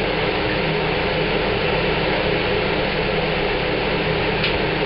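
Wall-mounted four-blade house exhaust fan running with a steady whir and a low motor hum. Its motor needs a little oil, by the owner's account. A faint click comes near the end.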